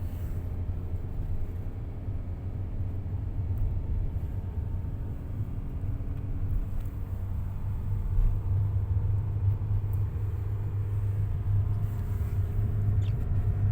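Steady low rumble of a car's engine and tyres heard from inside the cabin while driving, a little louder in the second half.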